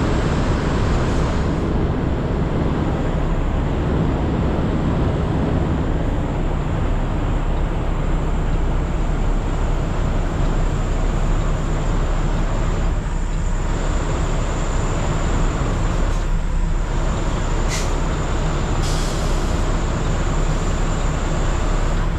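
Semi truck's diesel engine running steadily at low speed while the truck maneuvers to back into a parking spot, with a couple of brief hisses about three-quarters of the way through.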